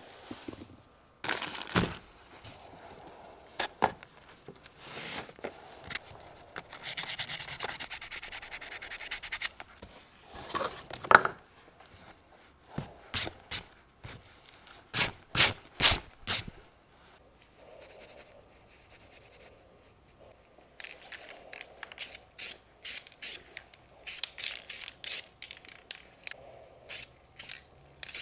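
Hand scraping and sanding strokes. First comes a few seconds of fast, even rubbing, then separate sharp scrapes, and near the end a run of short scraping strokes at about two to three a second.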